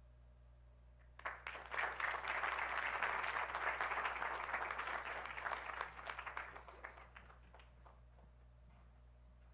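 Audience applauding. It breaks out about a second in and dies away after about six seconds.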